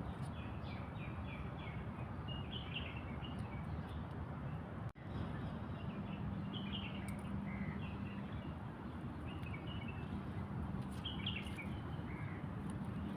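Small birds chirping in short runs of quick calls every second or two over a steady background noise, with a brief dropout about five seconds in.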